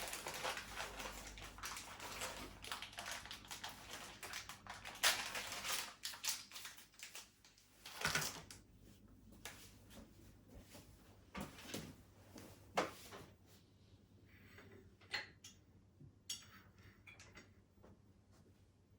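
A plastic packet of IKEA Fintorp metal hooks being pulled and crinkled open, a dense crackling for the first eight seconds or so, then a few separate sharp clicks and clinks as the hooks are handled.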